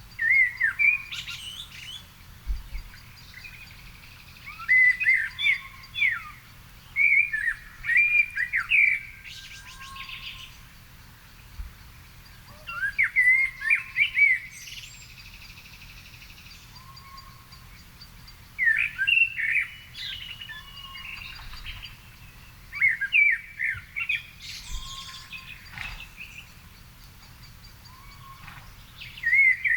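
A songbird singing short warbling phrases of a second or two, with a pause of a few seconds between phrases. Fainter chirps from other birds sound in between.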